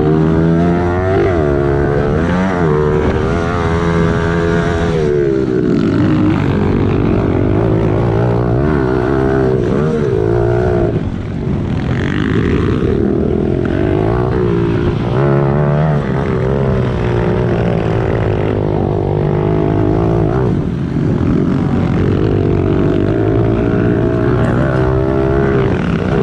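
Small single-cylinder four-stroke pit bike engine running hard on a track, repeatedly revving up and dropping back, its pitch climbing and falling every second or two with short lulls between.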